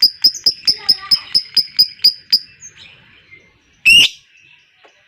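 Lovebird ngekek: a long run of sharp, high, evenly repeated chirps, about five a second, that stops about two and a half seconds in. Then one loud, shrill single call comes near the end, over faint chatter from other birds.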